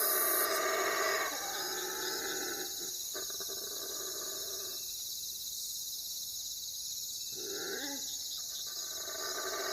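Owl calls: several drawn-out hoots in the first half and a short wavering call near the end, over a steady high-pitched background drone.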